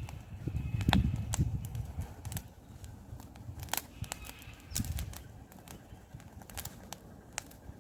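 Campfire crackling, with irregular sharp pops and snaps from the burning wood over a low uneven rumble.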